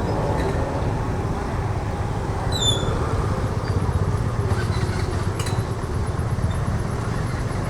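Motor scooter being ridden, a steady low rumble of engine and road noise. A brief high squeak falls in pitch about two and a half seconds in.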